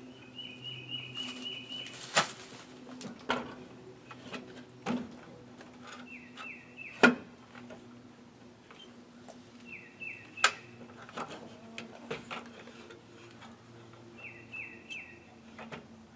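A songbird singing short phrases of quick falling notes, repeated every four seconds or so. Several sharp knocks land among them, the loudest about halfway through.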